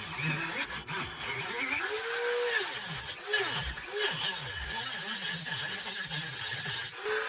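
Dremel rotary tool running and grinding into a wood block, a steady hiss with its pitch dipping and recovering as the bit bites into the wood.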